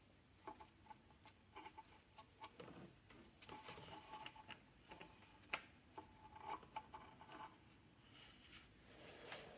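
Faint, irregular clicks and light metallic clinks of hand tools working on the engine, a few of them ringing briefly.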